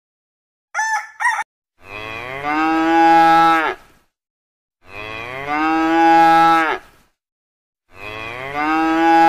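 Two short chicken calls about a second in, then a cow mooing three times, each moo lasting about two seconds and swelling louder toward its end.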